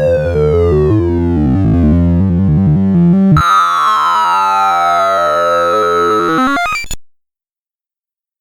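Synthesized tones of a sorting-algorithm sonification: a rapid stream of stepping pitches with falling sweeps, shifting to a new pattern about three seconds in, then cutting off suddenly about seven seconds in, followed by silence.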